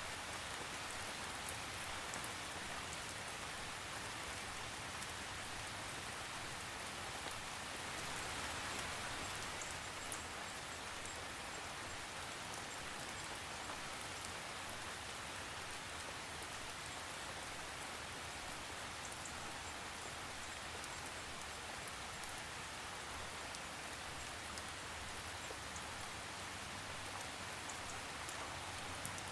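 Steady rain falling on surfaces, with fine scattered drop ticks and no thunder; it swells slightly about a third of the way in.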